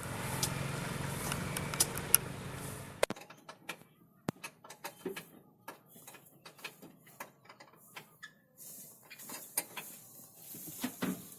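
A steady mechanical running noise cuts off suddenly about three seconds in, followed by scattered clicks and knocks.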